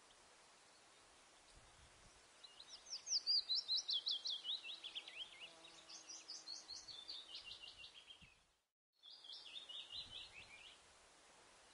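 A bird singing: a quick run of short whistled notes, each sliding downward, several a second, cut off abruptly by a brief silent gap and then resuming for a shorter run.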